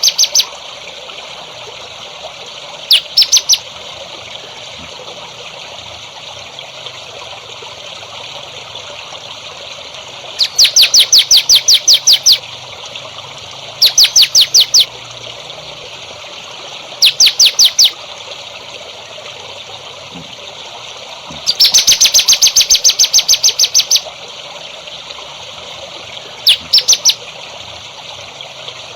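A songbird singing rapid trills: six bursts of quick, evenly repeated high notes, each lasting from under a second to about two seconds. Between and beneath them runs a steady trickle of water.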